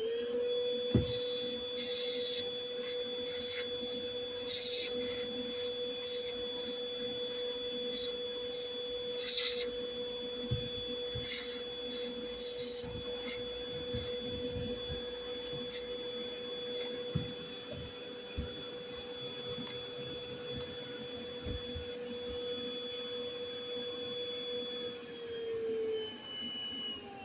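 Everything Bee Vac bee vacuum motor running with a steady whine that spins up to speed at the start and steps down in pitch near the end, with scattered short ticks over it as bees and debris are drawn in.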